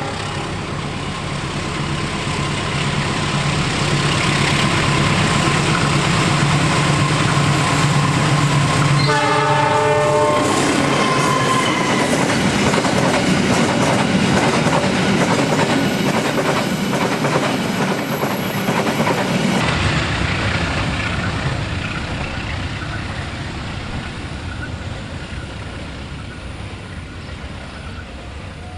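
Diesel-hauled cement freight train passing close by, giving a short blast of its multi-tone horn about nine seconds in over the locomotive's engine drone. Then the wagons clatter over the rail joints, and the sound fades away near the end.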